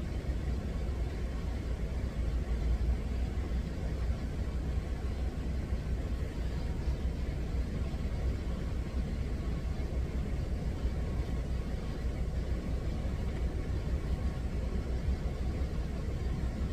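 Steady low rumble of a truck's idling engine, heard inside the cab.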